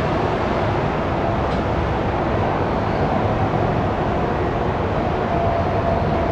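GE90-115B jet engines of an ANA Boeing 777-300ER running, a steady loud rush with a faint steady whine.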